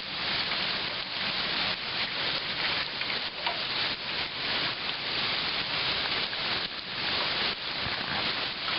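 Heavy rain falling steadily, a dense even hiss, with water gushing from roof downspouts.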